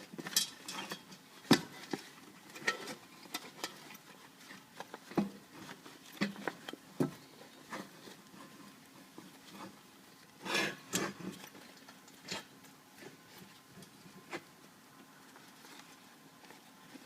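Irregular clicks, taps and rustles of hands working the new bag's fabric and wire around the edge of a Bag Shag golf ball retriever's top plate. The clearest knocks come a little after a second in and around five seconds, with a busier bout of rustling a little after ten seconds.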